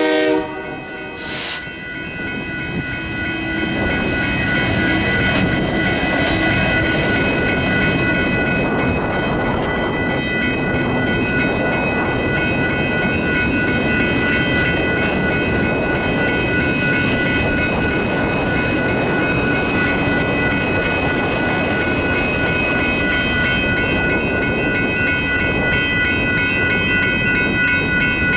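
Diesel freight-type work train led by a Union Pacific EMD SD70M locomotive rolling past a grade crossing, its engines and steel wheels rumbling and clicking over the rails. The crossing bells ring steadily the whole time.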